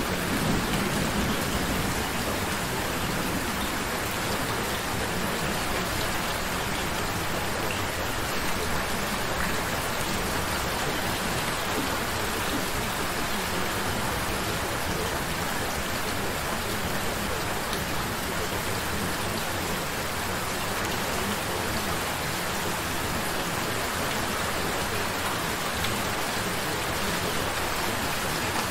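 Steady rain: an even, unbroken hiss of rain falling, holding the same level throughout.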